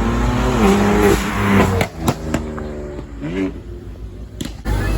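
A car engine revving loudly, its pitch rising and falling several times, with a few sharp cracks about two seconds in; it then drops quieter with one more short rev before the sound changes abruptly near the end.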